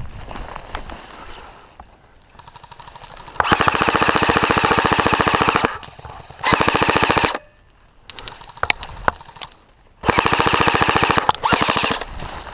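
Airsoft rifle firing on full auto in four rapid bursts: a long one of about two seconds, then a short one, then two more close together near the end, each a fast, even rattle of shots.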